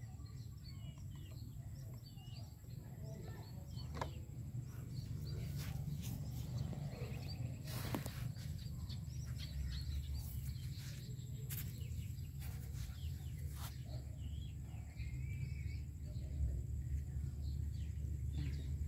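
Small birds chirping over a steady low rumble, with a few sharp clicks along the way.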